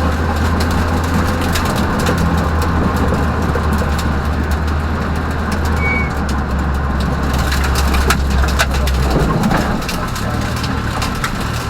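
Peugeot rally car's engine heard from inside the cabin, pulling steadily at speed with a strong low drone, its note changing about nine seconds in. Many sharp clicks and knocks come over it, from rain and road debris striking the car.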